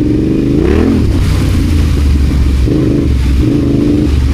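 Adventure motorcycle engine running on the move. It revs up sharply about a second in and then pulls at a steadier pitch, over a heavy low rumble.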